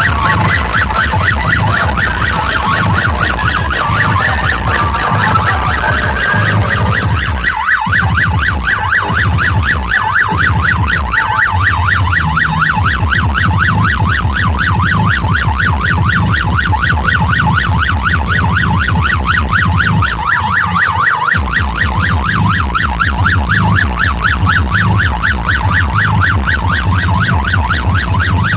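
A loud DJ sound system blasting a fast warbling siren effect over a pounding bass beat. The bass drops out briefly twice, about a quarter of the way in and again about two-thirds through.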